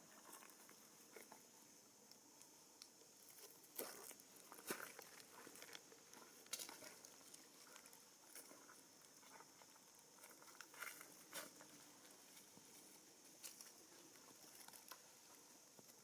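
Faint, scattered rustling and light taps, with a few sharper ticks about four, five and six and a half seconds in, over a steady high hiss.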